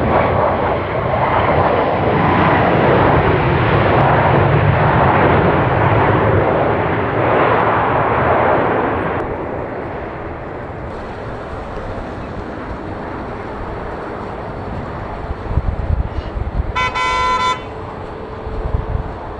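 Jet airliner engines roaring loudly at takeoff thrust, then dropping off abruptly after about nine seconds to a quieter rumble with wind on the microphone. A short horn toot sounds near the end.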